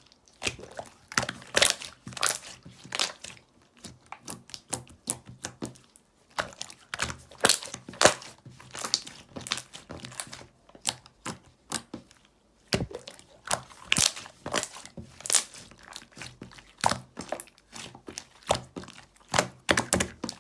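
Pink slime being squished and pressed by hand, making irregular crackling clicks and pops, with a couple of short pauses.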